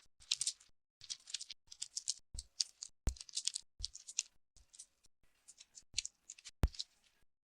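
Cartoon sound effects: a quick run of short scratchy, rustling strokes, several a second, broken by about four sharp knocks. The sound cuts out abruptly near the end.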